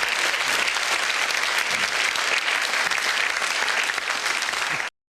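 Studio audience applauding steadily, cut off abruptly near the end.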